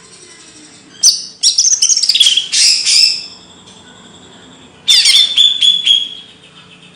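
A songbird sings two loud bursts of rapid chirps and quick downward-sweeping whistled notes, the first about a second in and the second near the five-second mark.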